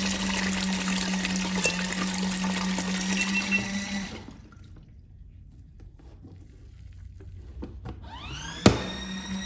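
Portable folding mini washing machine rinsing: its motor hums with water churning, stops about four seconds in, then after a click near the end starts up again with a rising whine.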